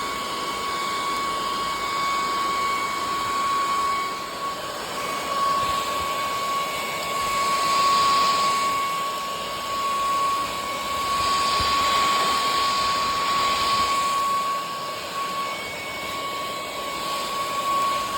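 Cordless stick vacuum cleaner running on a couch: a steady high motor whine over a rush of air that swells and eases as the nozzle is worked over the cushions.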